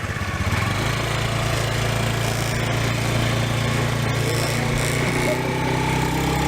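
Small motorbike engine running while riding, its fast low beat steady over a rush of wind and road noise; the engine note changes about five seconds in.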